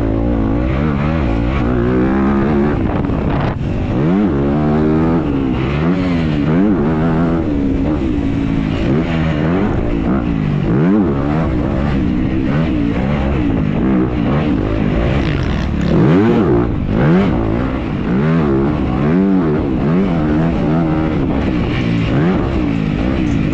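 Dirt bike engine racing at full effort, its pitch rising and falling again and again as the throttle is opened and closed through the track.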